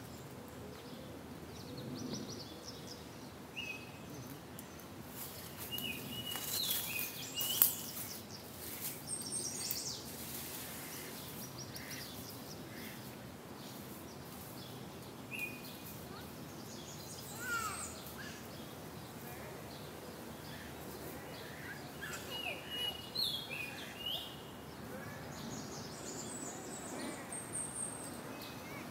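Small birds in a holly tree giving scattered short, high chirps and call notes. There is a cluster of sharp clicks from about six to ten seconds in.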